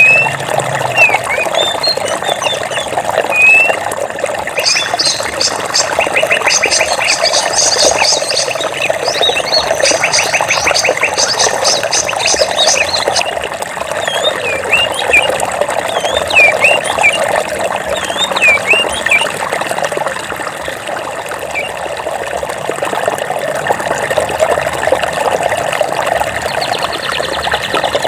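Water flowing steadily in a stream, with songbirds chirping over it in short rising and falling notes. A fast, high trill of rapidly repeated notes joins in about four seconds in and stops abruptly about thirteen seconds in.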